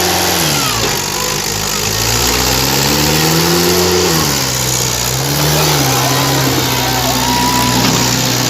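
Tractor diesel engine changing speed: it drops briefly, climbs for about three seconds, falls back, then runs steadily through the second half.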